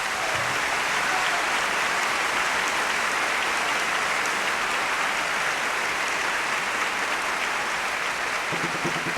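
Steady applause, an even patter of many hands clapping that holds at one level for several seconds.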